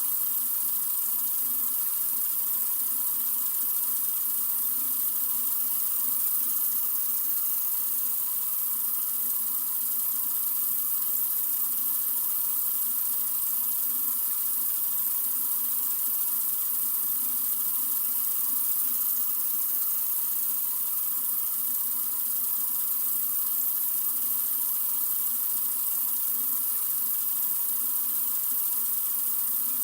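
Sink faucet running in a continuous stream, a steady hiss of water with no change in flow.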